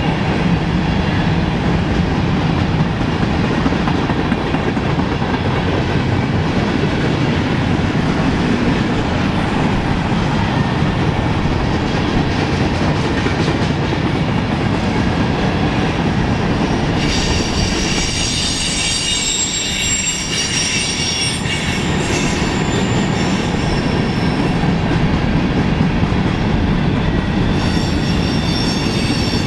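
Freight train of covered hoppers and boxcars rolling past with a steady rumble of wheels on rail. About halfway through, high-pitched wheel squeal sets in for several seconds, and it returns near the end.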